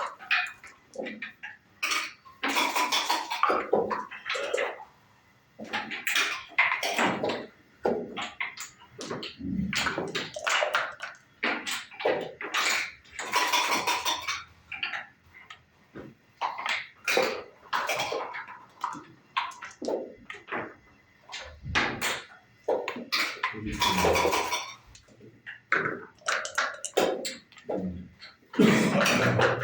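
Backgammon being played: dice rattled in cups and rolled onto the board, and checkers clacked down on the wood, in quick repeated clusters of clicks every second or two.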